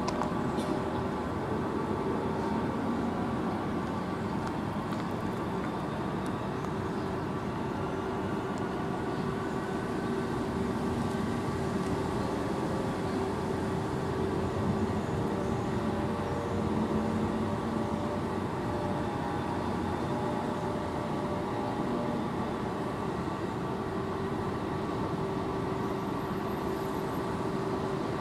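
Stationary passenger train standing at a level crossing, its onboard machinery running with a steady hum and a few held tones.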